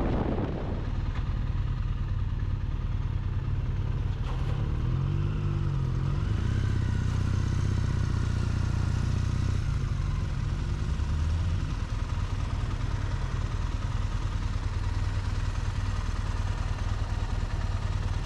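Triumph motorcycle engine running steadily with road and wind noise, its pitch rising and falling a few times between about five and twelve seconds in.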